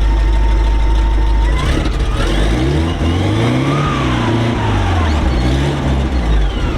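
Armoured vehicle's Rolls-Royce B80 straight-eight petrol engine idling, then revved once: the pitch climbs from about a second and a half in, peaks around four seconds and drops back to idle near the end. It takes the rev cleanly and is running beautifully.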